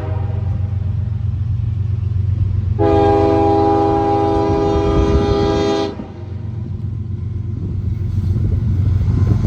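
Locomotive air horn on a GE ES40DC leading a coal train, sounding a chord of several notes: a short blast ends just after the start, then a long blast of about three seconds. This matches the closing short-long of a grade-crossing warning. Under the horn, the diesel locomotives rumble steadily, growing louder toward the end as the train closes in.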